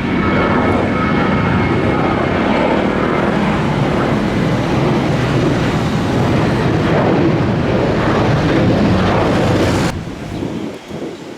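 Airliner engines at take-off power, a loud steady wash of engine noise that cuts off abruptly about ten seconds in.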